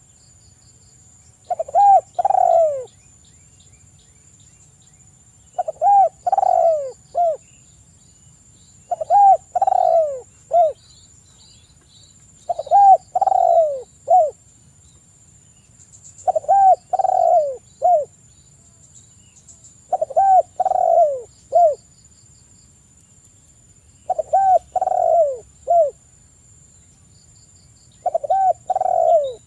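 Spotted dove (tekukur) cooing: a short phrase of three or four falling coos, repeated steadily about every three and a half seconds.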